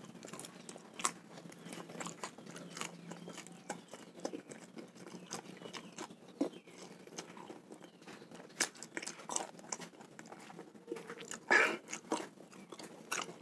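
A person biting and chewing raw fish: a run of irregular short clicks and smacks of the mouth, with a louder bite near the end.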